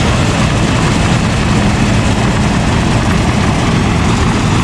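Heavy farm machine's engine running steadily and loudly, a low even rumble.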